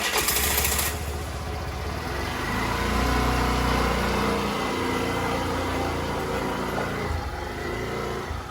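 A vehicle engine running steadily just after starting, a low hum that swells slightly a few seconds in and eases off toward the end.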